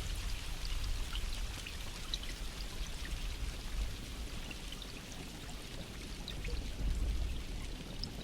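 Steady rain falling, with many separate drops ticking, over a low rumble.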